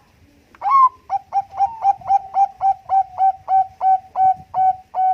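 Zebra dove (Bangkok-bred perkutut) singing: one longer opening note, then a fast, even run of about fifteen short coos, roughly four a second.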